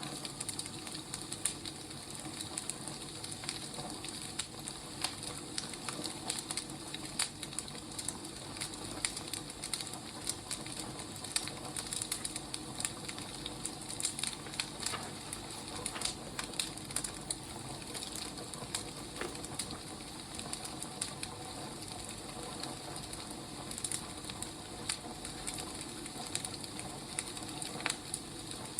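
Wood fire crackling: irregular sharp pops and snaps of burning firewood over a steady soft hiss.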